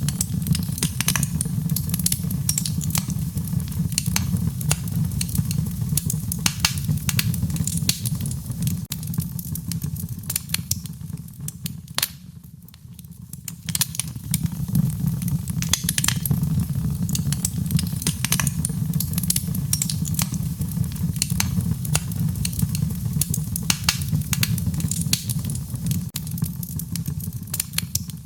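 Wood fire crackling, with frequent sharp pops over a steady low rumble of the burning fire. The fire goes briefly quieter about twelve seconds in, then picks up again.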